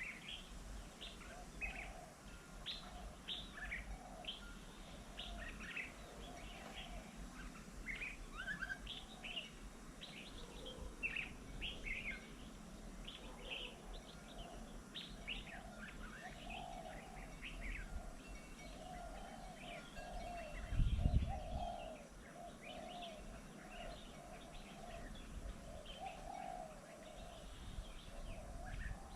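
Several birds chirping and calling in many short, quick notes, over a lower, wavering call repeated steadily. A brief low rumble about two-thirds of the way through.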